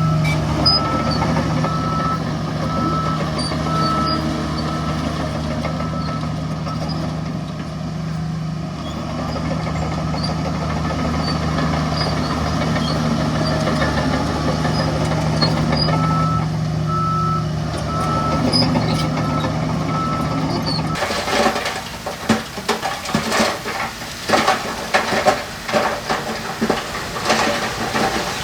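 Heavy truck diesel engine running steadily while a dump truck's reversing alarm beeps in two spells. About three-quarters of the way through, the engine hum gives way abruptly to an irregular clatter of tipped stone tumbling and crashing.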